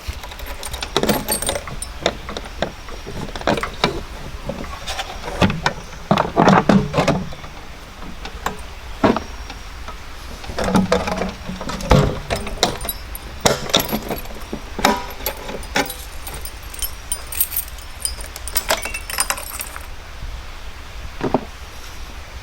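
Irregular clatter of objects being handled, with metallic clinks and knocks.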